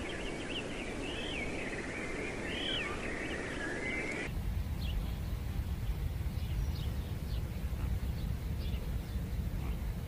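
Wild birds calling: repeated high arched chirps over a steady outdoor background. About four seconds in the sound changes abruptly to a low rumble with only faint, scattered high chirps.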